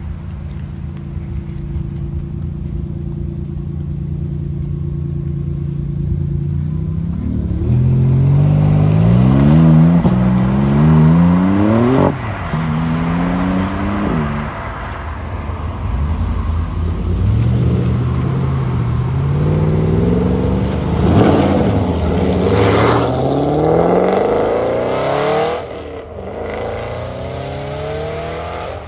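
Sports car engines accelerating hard away: a steady engine hum, then revs climbing and dropping back several times through quick gear changes, followed by another car accelerating and going past loudly near the end.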